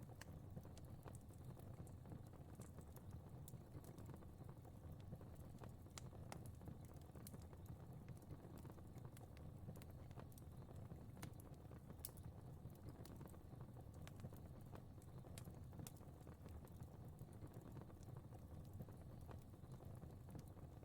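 Fire crackling softly: scattered small sharp pops and ticks over a low steady rumble.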